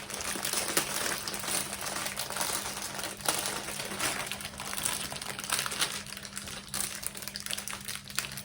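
Plastic packaging of a diamond painting kit crinkling and rustling as it is handled, busiest in the first six seconds, over a faint steady hum.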